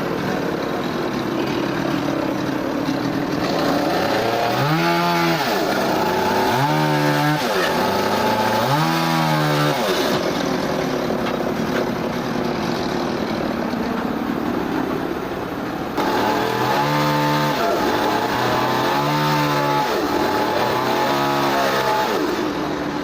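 An engine revving up and falling back three times, a pause, then three more revs, over steady machine noise.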